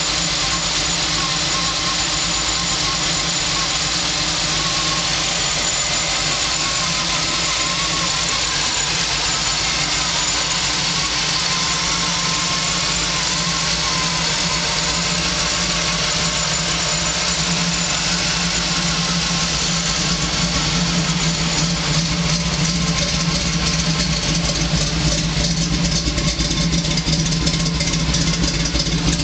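Chevrolet 350 small-block V8 crate engine idling steadily through headers and Flowmaster 40 series mufflers. About two-thirds of the way through it turns a little louder and choppier.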